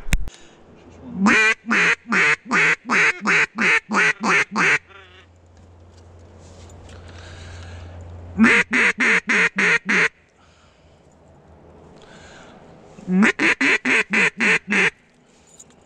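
Three runs of loud, evenly spaced duck quacks, about ten, then seven, then seven notes, with pauses of a few seconds between runs. The calls sound like a mallard hen's. A sharp click comes at the very start.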